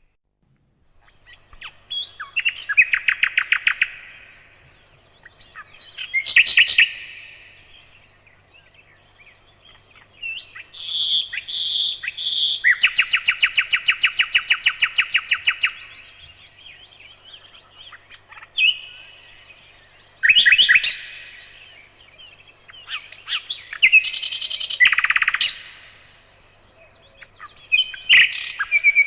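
Nightingale singing: separate phrases a few seconds apart, each a run of rapid repeated notes, the longest a fast trill of about three seconds near the middle.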